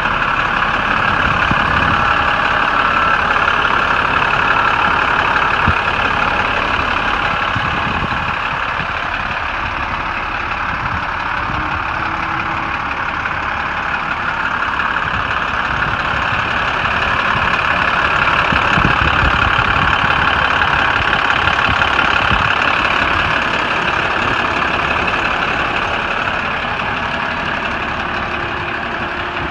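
International DuraStar 4300 service truck's diesel engine running steadily, rising and falling slightly in level.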